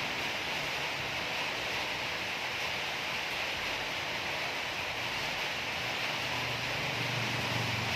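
A steady, even hissing noise with no distinct clicks, knocks or tones.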